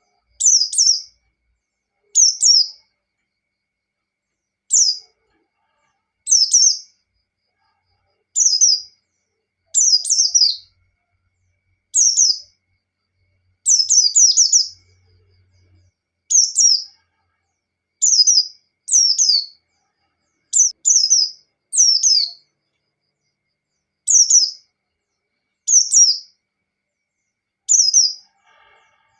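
Pleci (white-eye, Zosterops) singing its ngalas song: short, high, chirped phrases, many falling in pitch, repeated roughly every one and a half to two seconds with silence between.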